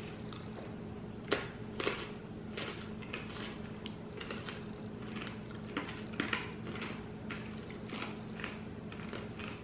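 A chocolate-filled mint hard candy being crunched between the teeth with the mouth closed: a string of short, irregular crunches, a few a second, over a faint steady hum.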